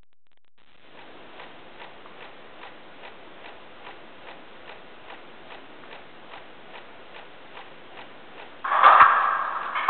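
Sound decoder of an FS E.656 model electric locomotive playing through its small speaker: a steady hiss with a regular tick about two and a half times a second. Near the end, a much louder sound with several held pitches starts abruptly.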